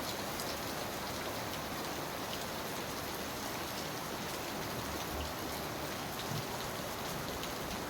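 Torrential rain falling steadily, an even hiss with scattered drops ticking through it.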